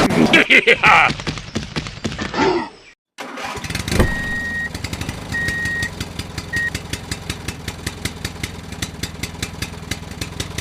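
Engine-like running with rapid, even knocking over a low hum, typical of a small tractor engine, starting after a short break about three seconds in. A few short high beeps sound over it.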